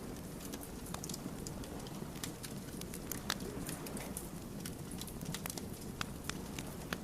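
Wood fire crackling: frequent sharp pops and snaps of burning logs over a steady low rumble of flames, with one louder pop about three seconds in.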